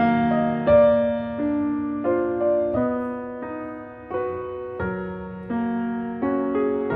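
Background piano music: a gentle, slow melody of single notes and soft chords, each struck and left to fade.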